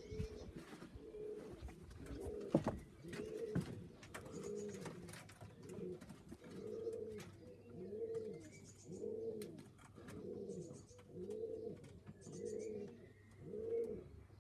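Pigeons in a loft cooing, a rising-and-falling coo repeated about once a second. Scattered clicks and knocks in the first few seconds.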